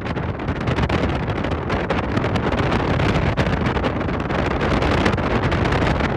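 Steady wind buffeting the microphone over a continuous low rumble.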